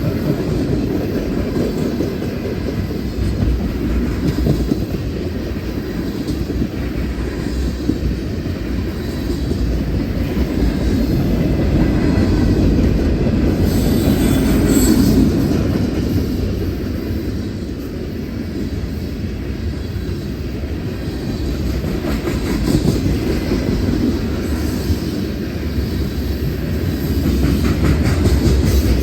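CSX freight train's cars rolling past on the rails: a steady, heavy rumble that swells and eases slightly over the stretch.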